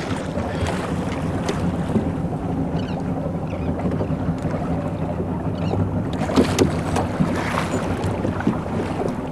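Boat motor running with a steady low hum, with wind on the microphone.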